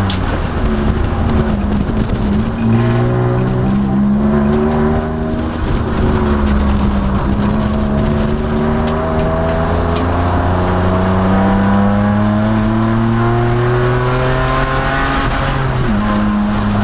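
In-cabin sound of a 2002 Nissan Maxima race car's V6 engine at racing pace. The engine pitch climbs through the rev range with breaks about three and five seconds in, pulls up in one long rise, then jumps suddenly higher near the end as the car downshifts.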